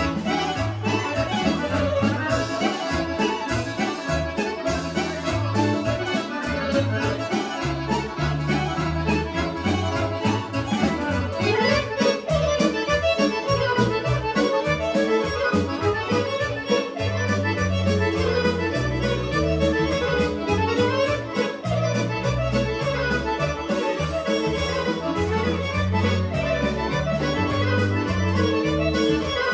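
Serbian folk kolo dance music played by a band: accordion leading a fast, busy melody with violin, over a steady bass beat.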